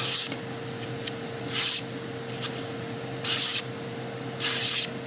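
A kitchen knife drawn in four short scraping strokes, about one every second and a half, as its edge is worked or tested for sharpness.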